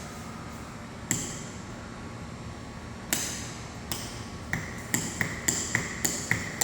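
Ceiling fan switched on and spinning up, with a sharp metallic tick and short ping once per turn. The ticks come faster and faster as the fan gathers speed, reaching about four a second near the end.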